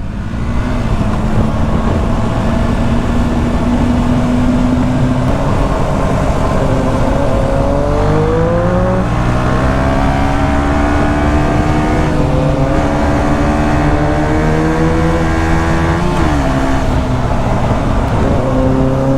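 KTM 125 Duke's single-cylinder four-stroke engine under way, its revs climbing and dropping back with gear changes, with a sharp drop in pitch around sixteen seconds in.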